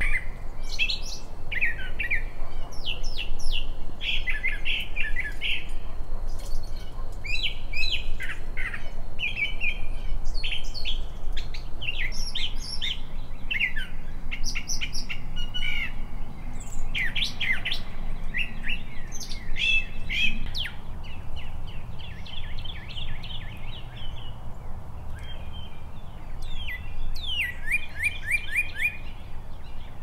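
Several small birds chirping and singing, many short call phrases following one another and overlapping, over a low steady rumble.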